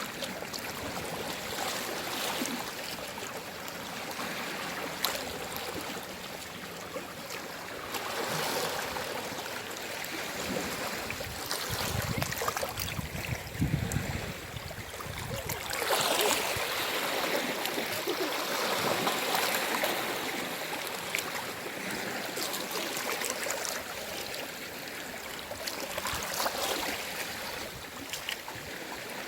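Gentle sea waves washing in and out on a shore, rising and falling in swells every few seconds, the strongest a little past the middle.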